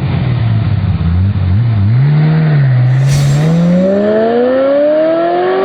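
Car engine revving, its note wavering low for the first few seconds, then accelerating with the pitch climbing steadily to the end. There is a brief hiss about halfway through.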